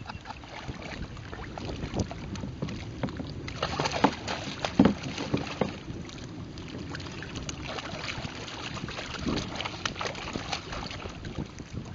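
Wind buffeting the microphone and water sloshing against a sea kayak, with scattered knocks and clatter from handling on the boat, the loudest about four to five seconds in.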